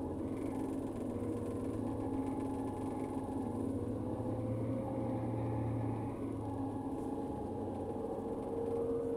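Steady engine and road drone heard from inside a moving vehicle, with a constant low hum and no speech.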